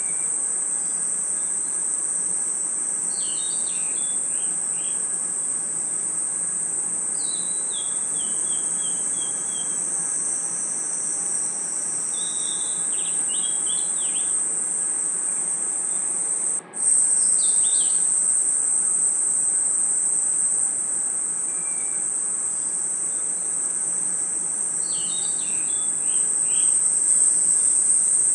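Night chorus of crickets, a dense, steady high-pitched trill. Over it, a short falling run of chirps comes every few seconds. The sound cuts out for a split second about two-thirds of the way through.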